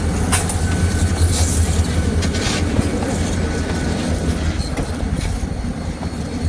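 Freight train moving: a diesel locomotive's engine drones steadily under railcar wheels clicking over the rail joints, with a brief faint wheel squeal about a second in.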